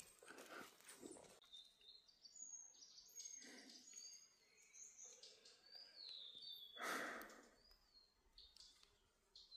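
Faint forest birdsong: short, high whistled notes, some sliding downward, scattered through. A brief scuffing in soil near the start and a breathy rustle about seven seconds in.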